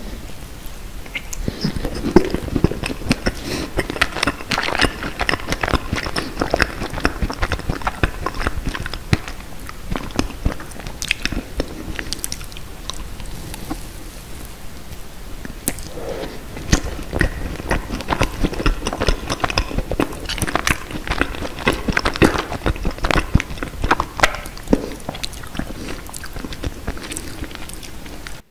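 Close-miked biting and chewing of a strawberry macaron filled with fresh strawberry and strawberry jam, full of small crackles and mouth clicks. The chewing is heavier in two stretches, one near the start and one past the middle.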